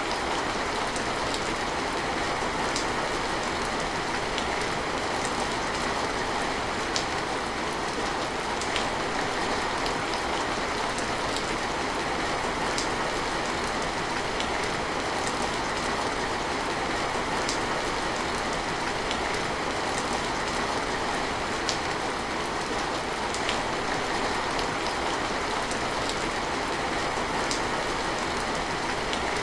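Steady rain falling: an even hiss of rain on surfaces, with single sharper drops ticking every second or two.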